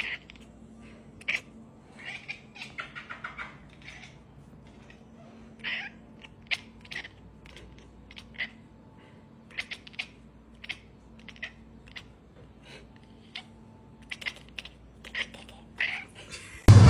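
A cat giving short, repeated meows and chirps, mixed with scattered sharp clicks or taps. Loud music cuts in abruptly at the very end.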